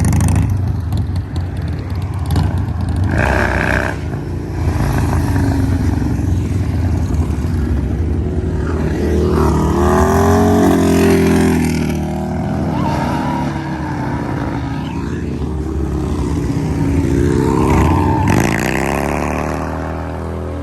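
Motorcycle engines running hard, with a heavy steady rumble, revved up and down twice: a rising and falling whine about halfway through and again near the end.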